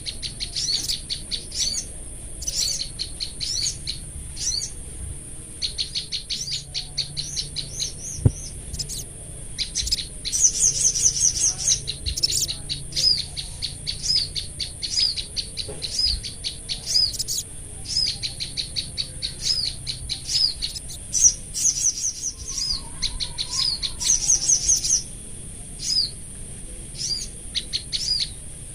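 Small songbirds, a sogon and wild prenjak lumut (tailorbirds), calling against each other. They give fast runs of sharp high chirps and rattling trills, in bursts of one to two seconds with short gaps, over a steady high-pitched hiss.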